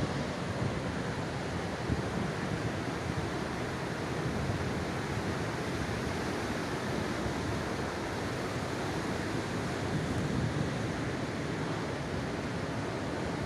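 Storm waves surging on the shore, a steady rushing wash, with wind buffeting the microphone.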